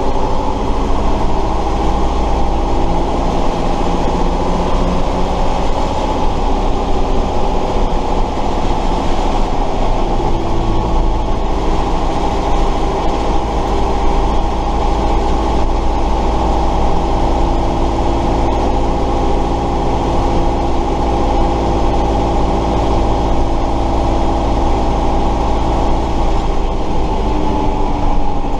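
Air-cooled V8 diesel of a 1968 Tatra 138 truck running steadily on the move. Its engine note shifts in pitch about ten seconds in and again near the end.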